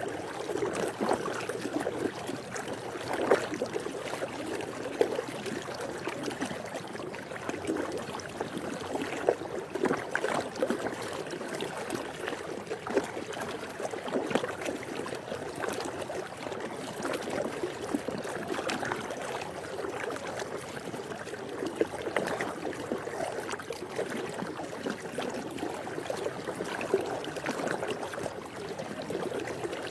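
Swimming pool water lapping and sloshing: a steady wash of moving water with frequent small splashes.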